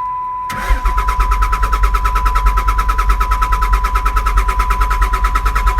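Dodge Cummins diesel engine cranking on the starter with an even, rapid chugging, about ten compression beats a second, and not firing: a no-start that the owner puts down to a fuelling issue. A steady high electronic tone sounds throughout.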